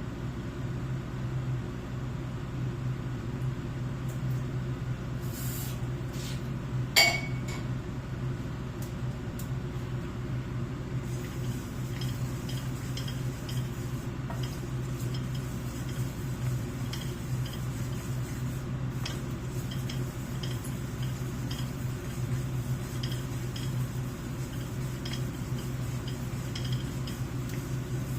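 Kitchenware handled during cooking: light clinks and small ticks over a steady low hum, with one sharp, ringing clink about seven seconds in.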